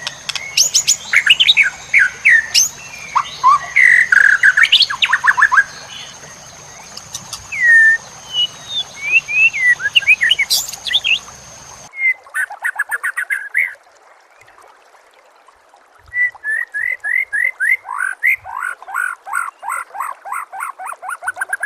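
Songbird song made of rapid sweeping whistles and chattering trills, set against a steady high-pitched tone and hiss. About halfway through it cuts abruptly to a cleaner recording. After a short pause, that recording carries a fast series of falling trilled notes.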